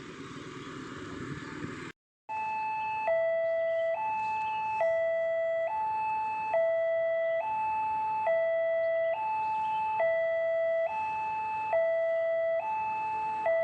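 A steady rushing noise for about two seconds, then, after an abrupt cut, a railway level-crossing warning bell: an electronic two-tone chime switching between a higher and a lower note a little faster than once a second, signalling that a train is approaching.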